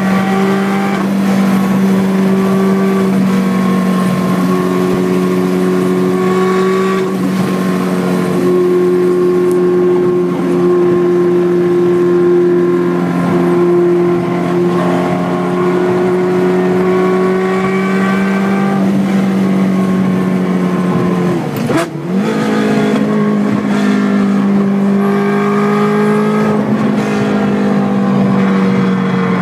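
Ferrari F430's V8 engine running through its exhaust, held at steady revs. About three-quarters of the way through, the revs dip briefly, then settle slightly higher.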